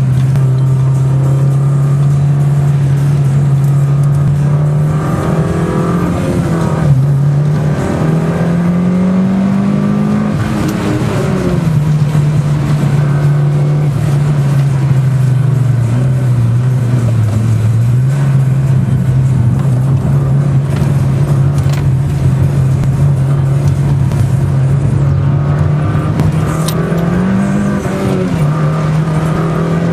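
Mitsubishi Lancer Evolution IX's turbocharged four-cylinder engine running hard, heard from inside the cabin. Its pitch climbs and drops with throttle and gear changes, with longer rises around a third of the way in and again near the end.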